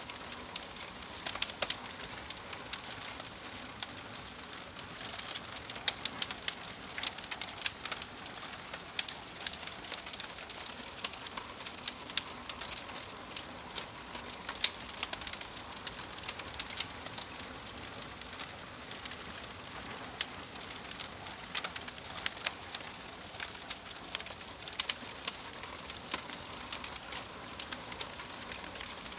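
Fire crackling: a steady hiss with irregular sharp pops and snaps, several a second.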